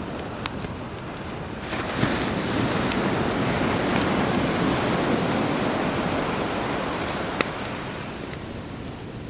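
Sea surf washing in, a wave swelling about two seconds in and slowly ebbing near the end, with the sharp pops and crackles of a campfire over it.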